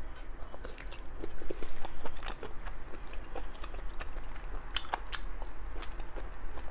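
A person chewing shellfish meat close to the microphone, with scattered small clicks and crackles of biting.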